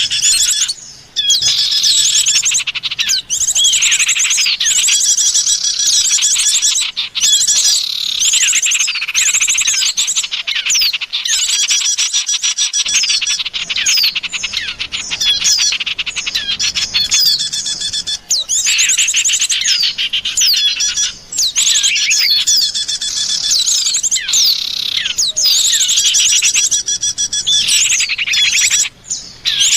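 Small songbirds chirping and chattering in a dense, busy mix of rapid high trills and call notes, a bird-lure recording of the kind played to draw white-eyes, prinias and similar birds in.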